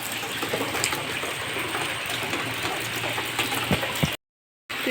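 Steady rain falling, with many separate drops ticking on surfaces close by. The sound drops out completely for about half a second near the end.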